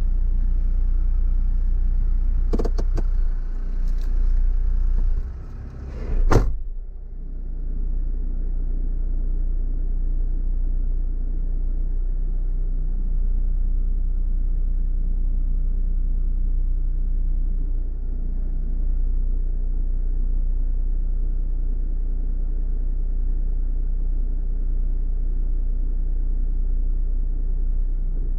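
Car engine running steadily at a low, even hum, heard from inside the cabin. Several sharp clicks and knocks come in the first six seconds, the last a door shutting, after which the sound is more muffled.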